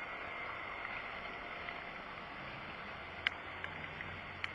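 Steady hiss of rain falling, with three sharp clicks in the last second and a half.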